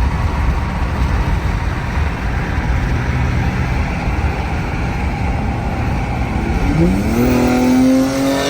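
A performance car's engine and exhaust running loud and hard. About seven seconds in, a pitched tone sweeps upward, then holds steady.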